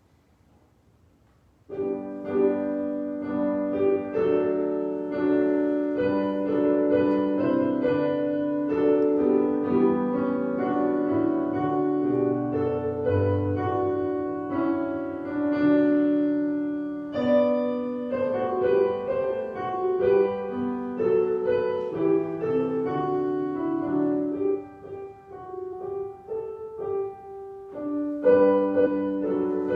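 Piano music: a prelude of chords and melody that starts suddenly after a second or two of near silence and eases quieter for a few seconds near the end.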